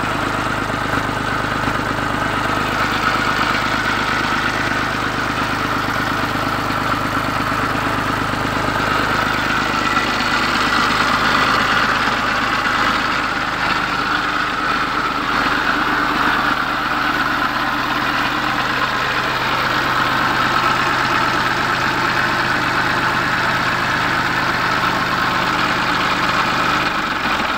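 Tafe 45 DI tractor's diesel engine idling steadily.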